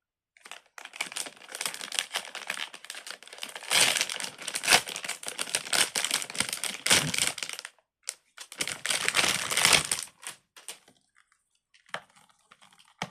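Plastic wrapping crinkling and crackling as it is handled for about ten seconds, with a short break partway through, followed by a few soft clicks near the end.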